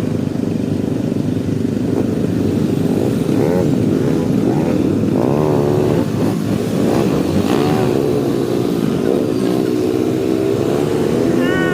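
Motorcycle engine running on the road, its pitch rising and falling again and again as the throttle opens and closes.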